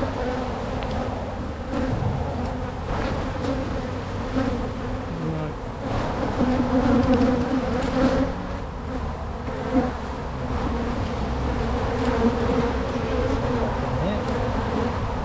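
A mass of honeybees buzzing around an open hive, a dense steady hum that swells a little in the middle, with a few light knocks along the way.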